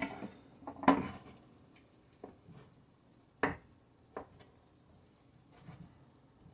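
Scattered knocks and clinks of kitchen utensils against dishes, five or six separate strokes. The loudest comes about a second in and another sharp one about three and a half seconds in.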